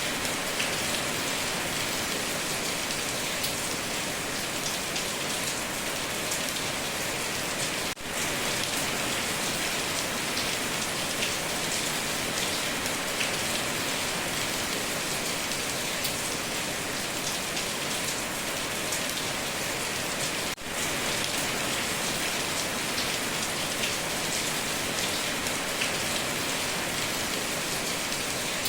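Heavy rain drumming steadily on a tin roof, with dense drop ticks. The sound dips briefly twice, about 8 and 20 seconds in.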